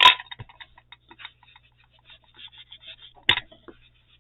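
Quick light tapping and dabbing of an ink pad against paper as its edges are inked, with a louder knock at the start and another about three seconds in.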